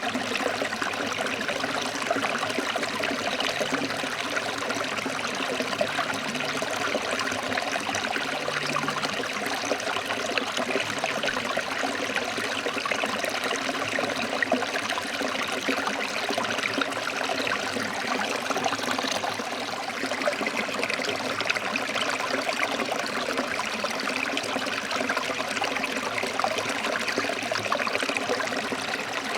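Forest stream flowing over rocks: a steady, even rush of water with fine splashing and trickling.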